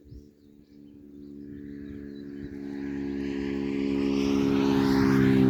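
A motor vehicle approaching and passing close by: its engine hum and road noise grow steadily louder from about a second in and peak at the end.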